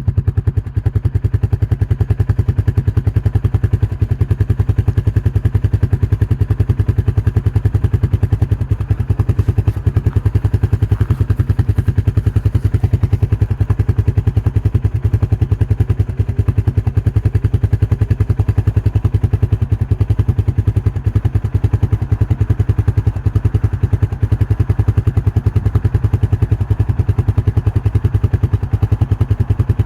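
An engine running steadily: a low rumble with a fast, even pulse that does not change.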